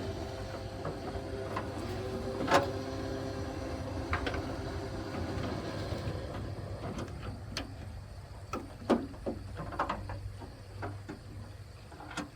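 Light clicks and knocks of parts being handled during headlight installation, with one louder knock about two and a half seconds in and a scatter of sharper clicks in the second half, over a steady low hum.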